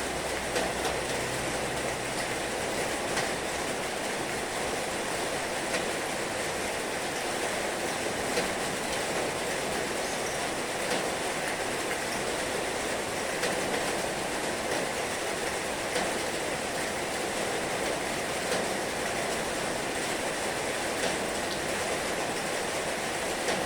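Heavy rain falling steadily: an even, dense hiss with occasional sharper drop strikes standing out.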